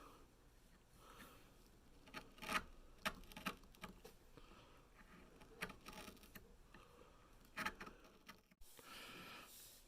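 Quiet handwork on small pieces of wood: a series of light taps and clicks, the sharpest about two and a half seconds in and a few more later.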